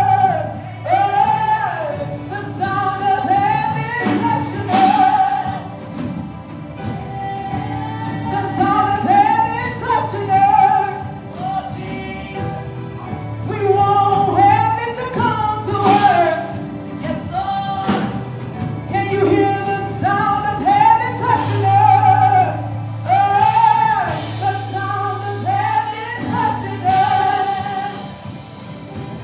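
Live gospel worship music: singers carry a melody over a band with a sustained low bass and steady drum hits.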